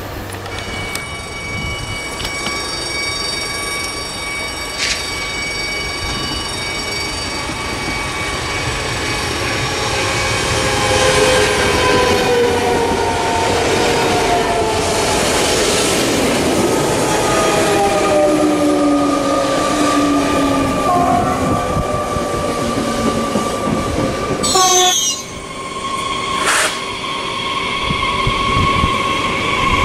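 Double-deck electric passenger train approaching and passing close by. Its wheels run on the rails under a pitched electric whine, which slides down in pitch as the train goes by. About 25 seconds in, the sound cuts abruptly to a different steady tone.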